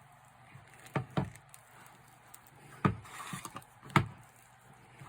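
Five sharp, irregularly spaced taps and knocks, the loudest about a second in and near the end, from small plastic slime and clay containers being handled on a table.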